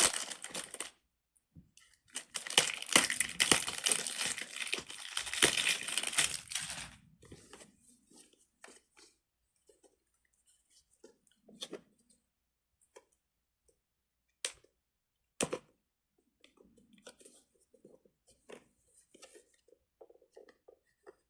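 Plastic packaging crinkling and tearing as a pack is unwrapped, loud and continuous for about five seconds. A few sharp clicks and taps follow later.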